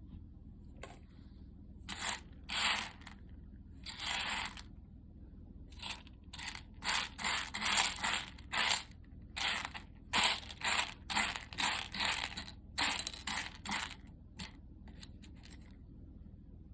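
Coffee beans rattling and scraping against the wire mesh of a hand-held roasting net as it is shaken, in short rustling strokes that settle into about two a second in the middle stretch, then trail off.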